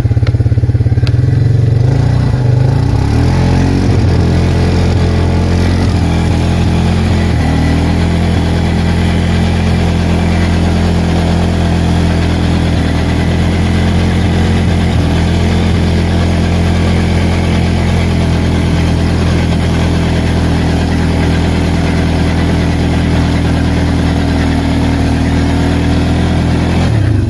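Arctic Cat 366 ATV's single-cylinder four-stroke engine running loud and continuous, its revs shifting up and down over the first several seconds and then holding steady.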